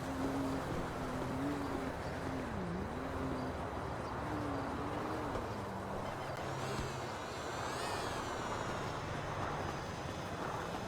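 Car engines running, with a high-pitched whine that rises about six to eight seconds in and then falls away.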